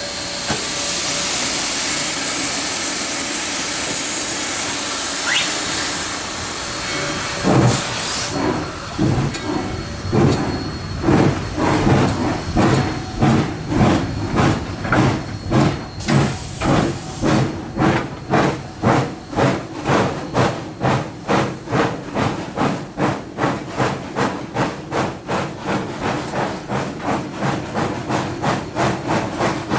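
Narrow-gauge steam locomotive starting a train. Steam hisses steadily for about seven seconds, then the exhaust chuffs begin, slow at first and quickening steadily to about two or three beats a second as the engine picks up speed.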